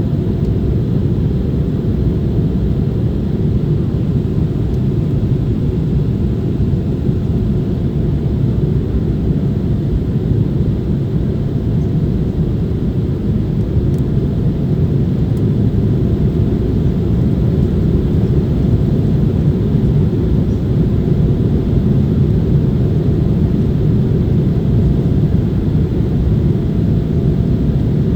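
Airliner's jet engines and airflow heard inside the passenger cabin, a steady low rumble that holds even throughout.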